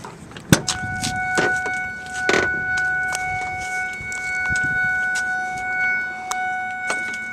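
A latch clicks, then the 2000 Ford F250's warning chime sounds as one steady, unbroken tone: the cab's door-open or key-in-ignition alert. Light handling clicks and one louder knock come through over it.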